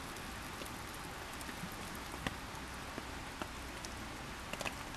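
Steady hiss of light rain falling, with scattered drops ticking irregularly, about one a second.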